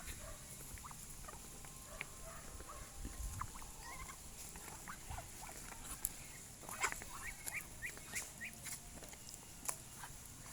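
Farm poultry calling: scattered short, high peeps and chirps with a few clicks over a steady high hiss, livelier in the second half.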